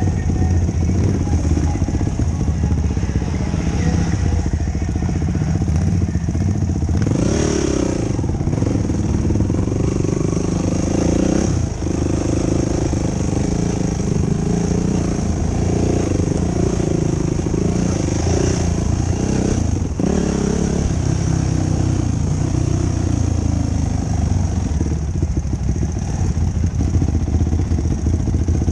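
Yamaha YFZ450 quad's single-cylinder four-stroke engine running under way, its pitch rising and falling as the throttle is worked, with brief drops in revs about 8, 12 and 20 seconds in.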